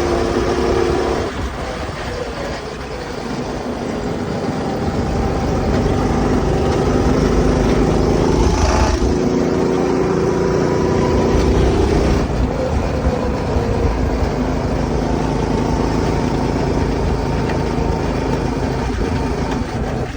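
Small pull-start go-kart engine running on a newly fitted 30 mm carburetor while the kart is driven, its pitch and level rising and falling with the throttle over a low rumble.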